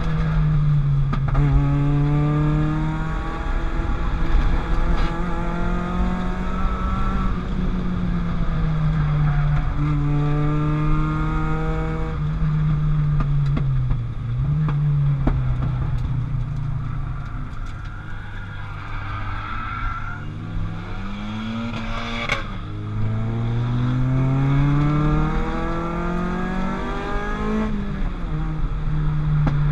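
Peugeot 205 GTI's 206 RC four-cylinder 16-valve engine under hard acceleration on a track lap, the engine note climbing through each gear and dropping at every upshift. Midway it eases off for a while, then pulls hard through the gears again.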